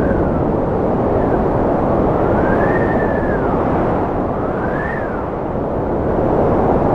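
Cold wind howling, a steady rush with whistling tones that rise and fall every couple of seconds.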